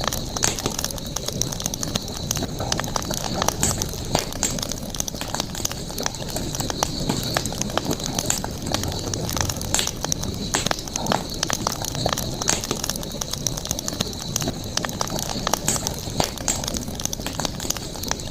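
Wood campfire crackling, with frequent irregular sharp pops over a low steady rumble of flame. A steady high-pitched hum runs underneath.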